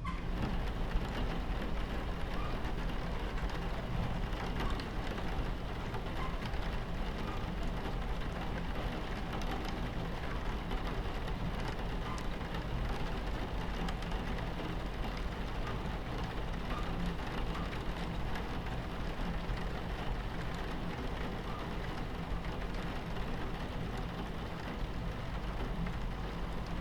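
Rain on a train window, with scattered faint drop ticks, over the steady low rumble of a moving train.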